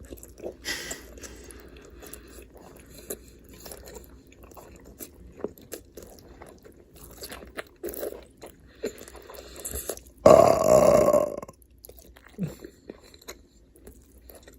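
Close-miked chewing and crunching with wet mouth clicks, and one loud burp lasting about a second, ten seconds in.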